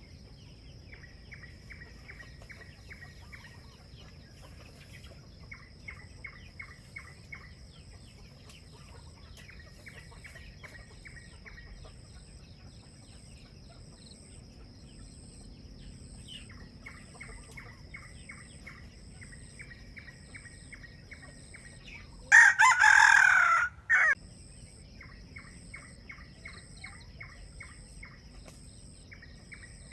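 A jungle fowl rooster crows once, loud and short, about two-thirds of the way through. Under it, bursts of rapid chirping repeat every few seconds over a steady high whine.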